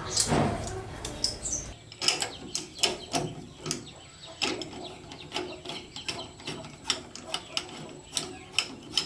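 Hand-tool work on metal fittings: a run of sharp clicks and knocks, about two or three a second. A low hum under the start stops after about two seconds.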